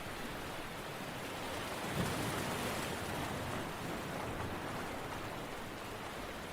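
Steady rushing water noise, swelling briefly about two seconds in.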